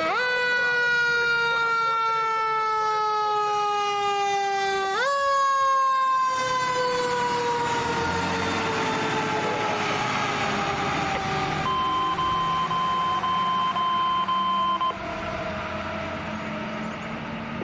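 Fire engine siren on an emergency response: it winds up in pitch at the start, falls slowly, winds up again about five seconds in and keeps falling. A steady high tone sounds over it for about three seconds near the end.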